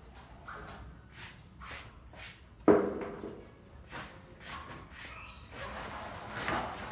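Light, repeated knocks and taps from building work, about two a second, with one much louder sharp bang about two and a half seconds in that rings on briefly.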